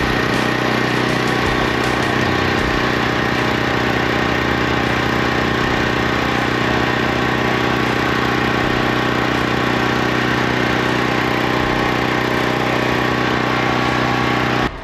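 A machine runs with a loud, steady hum made of several held tones. It cuts off abruptly near the end.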